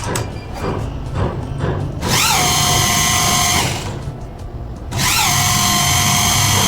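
Small electric power tool whining in two runs of about a second and a half each. Each time the pitch jumps up as it starts, then settles to a steady whine.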